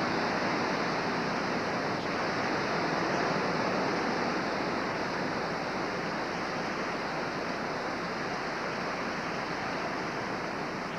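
Hurricane Charley's serious wind blowing hard and steadily, a dense even rushing noise with no single gusts standing out.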